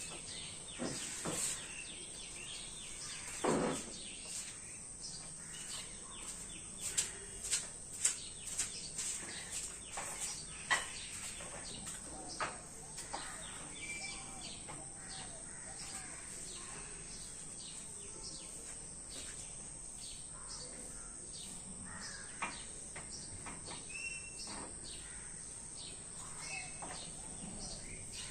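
Faint outdoor ambience with small birds chirping now and then over a steady high-pitched hiss. A run of sharp clicks and knocks comes about a third of the way in.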